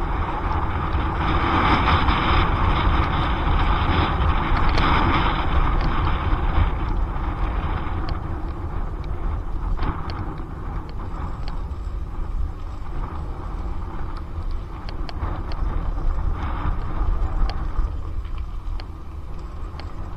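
Wind buffeting a helmet-mounted action camera's microphone during an electric mountain bike ride, with a low rumble of tyre and road noise. It is louder over the first several seconds and then eases, with scattered light ticks later on.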